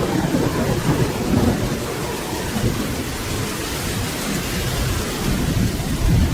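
Steady rain with a low, rolling rumble of thunder underneath.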